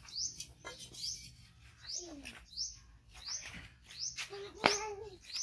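A bird calling over and over with short rising high chirps, about two a second. A few sharp knocks fall among them, the loudest nearly five seconds in.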